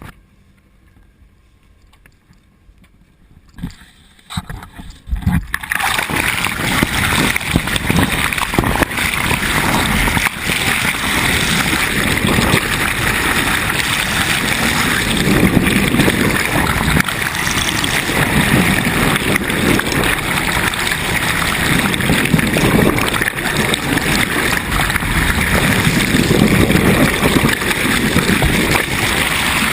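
Sailboat under way: water rushing and sloshing past the hull, with wind buffeting the microphone, starting suddenly about five seconds in after a few faint knocks.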